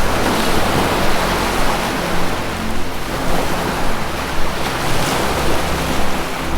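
Ocean waves washing in steadily, a surge rising near the start, over low sustained drone tones from ambient music.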